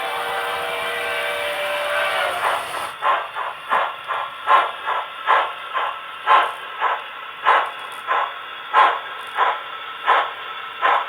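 Steam locomotive sound for a model C11 tank engine: a held whistle chord over hiss that dies away about two seconds in, then steady exhaust chuffs, about two a second, as the engine gets under way.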